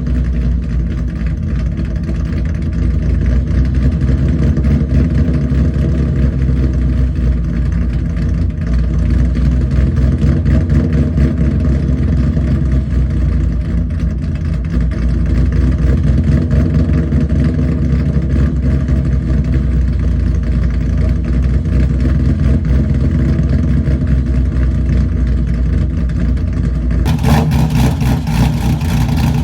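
Ford Mustang GT's V8 idling through an aftermarket exhaust with the choppy, uneven lope of a 'ghost cam' idle tune, which makes a stock engine sound like it has a big camshaft. The sound turns brighter and harsher about two seconds before the end.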